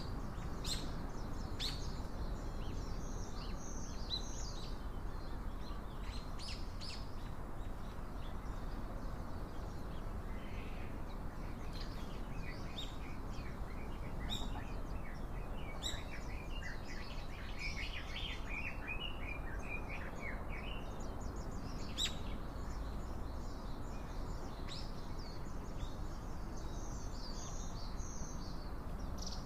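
Small songbirds chirping and twittering in many short calls, busiest in the middle stretch, over a steady outdoor background hiss.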